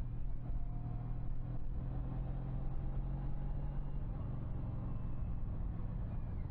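Honda CTX1300's V4 engine running smoothly at a steady cruise, its pitch creeping slightly up over the first few seconds, with road and wind noise.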